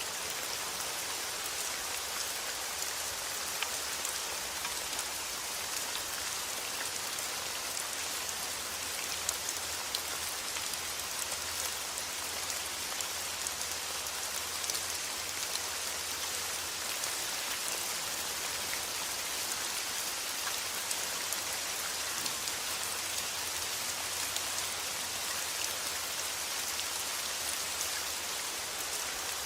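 Steady rain falling: a dense, even hiss with scattered sharper drop ticks, over a faint low steady rumble.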